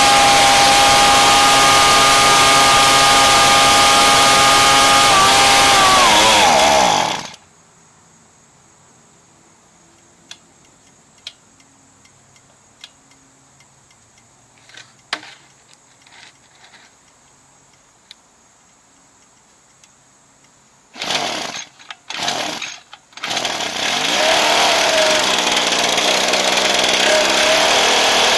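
Small gas engine of a Ryobi backpack blower, fitted with a replacement carburetor, running at a steady high speed, then winding down and stopping about seven seconds in. A few light knocks follow, then after two or three short bursts it starts again and runs loudly, its speed sagging and recovering once.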